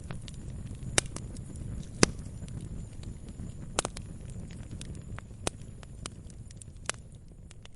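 Wood fire crackling in a fireplace: a low steady rumble of burning with sharp, irregular pops and snaps, a few of them much louder than the rest, fading a little toward the end.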